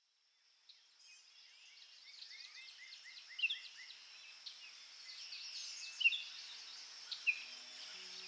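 Birdsong fading in: several birds chirping and calling, including a quick run of repeated chirps, over a steady high-pitched drone. Faint music tones begin near the end.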